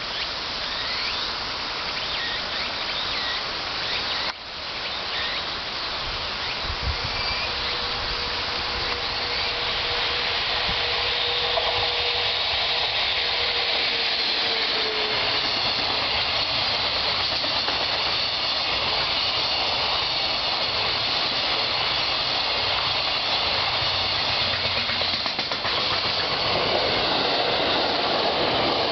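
A freight train hauled by an ED76 electric locomotive running past, its wheels on the rails making a steady noise that builds over the first ten seconds. Near the end a 787 series electric express passes close by on the other track.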